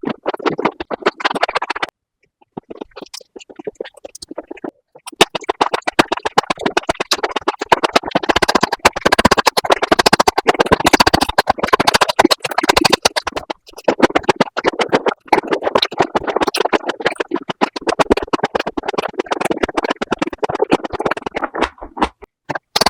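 Fast-forwarded eating sounds of a whole zucchini: rapid, dense bites and chewing crunches run together by the speed-up, sparser for the first few seconds and then near-continuous.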